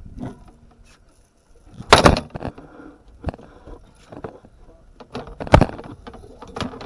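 Gear clattering in a fishing boat: a loud sharp knock about two seconds in and another just past halfway, with lighter clicks and rattles between.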